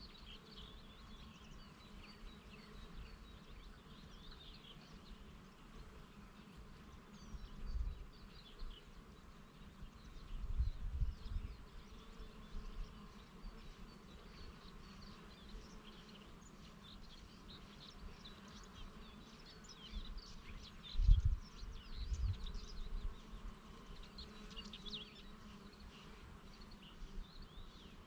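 Honeybees buzzing steadily around flowers, with small birds chirping in the background. A few low buffets of breeze hit the microphone, the strongest about two-thirds of the way through.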